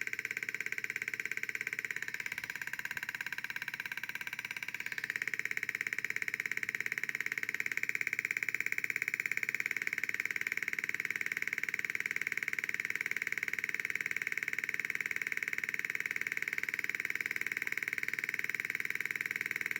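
Electronic motorcycle-engine imitation from two 555 timer circuits driving a resonance speaker, set at its slowest rate: a steady, rapid pulsing buzz. The pitch wavers briefly a couple of seconds in, then holds steady.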